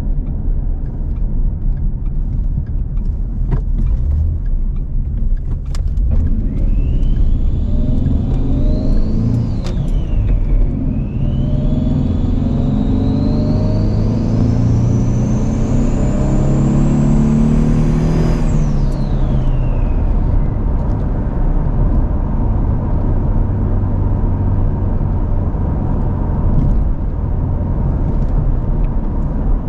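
Twin-turbo-manifold Ford Mustang engine and exhaust under acceleration, running on the stock tune without boost. Engine note and a high whistle rise together, dip briefly about ten seconds in as with a gear change, climb again until about eighteen seconds in, then fall away to a steady cruising drone.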